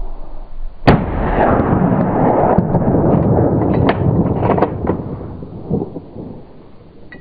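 A single loud gunshot about a second in, followed by several seconds of loud rumbling noise with a few fainter sharp cracks, dying away near the end.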